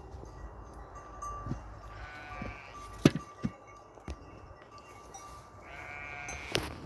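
Chios sheep bleating twice, about two seconds in and again near the end, with a few sharp clicks or knocks in between.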